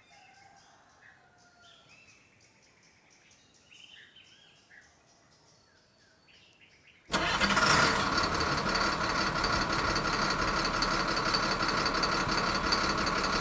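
Faint birds chirping, then about seven seconds in a small motor starts abruptly and runs steadily with a high whine.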